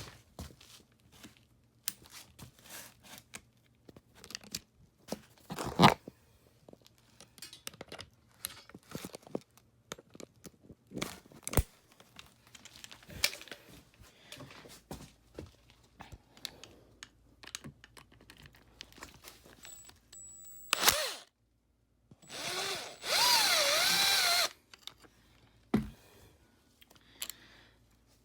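Handheld power drill spinning a fastener on a dirt bike, in a short burst and then a run of about two seconds near the end, its motor pitch wavering under load. Scattered clinks and knocks of hand tools and metal parts come before it.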